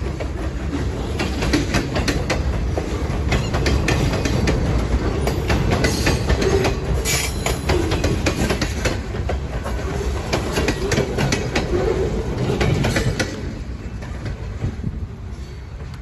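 Freight cars rolling past close by: a steady low rumble with wheels clicking over the rail joints, and a brief wheel squeal about seven seconds in. The sound drops away in the last few seconds as the end of the train passes.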